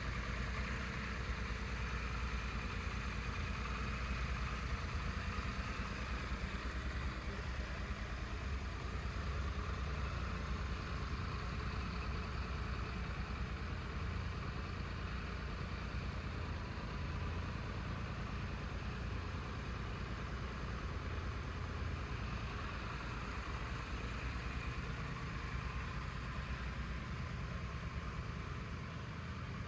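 Triumph Tiger 1200's three-cylinder engine idling steadily, with no revs.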